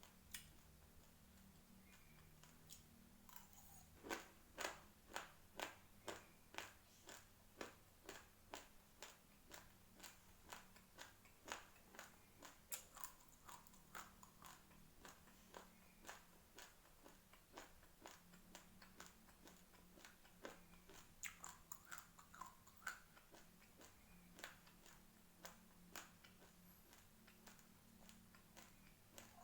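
Raw rice grains crunched between the teeth while chewing: a steady run of sharp crunches about two a second, starting about four seconds in and growing fainter toward the end.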